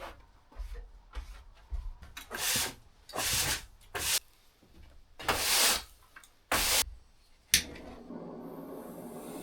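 About six short rubbing strokes at uneven intervals, each lasting under a second. Near the end a steady low hum sets in.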